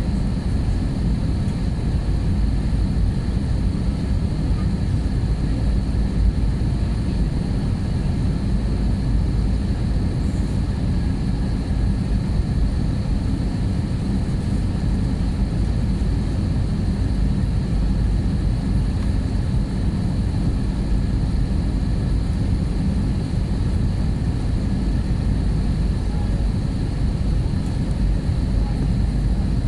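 Steady jet-airliner cabin noise aboard an Airbus A320-family plane in flight: a loud, even rumble of engines and airflow with a faint high steady whine, unchanging throughout.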